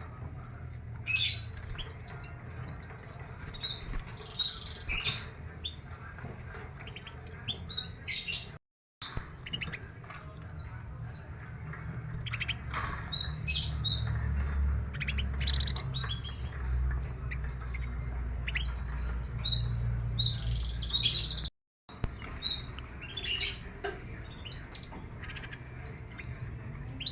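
Domestic canaries chirping and calling in repeated clusters of short high notes, over a steady low hum. The sound cuts out briefly twice.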